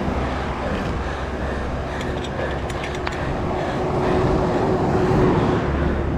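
Wind rumbling on the microphone during a bicycle ride, with a motor vehicle going by: a steady engine hum comes in about two seconds in, grows louder, and fades near the end.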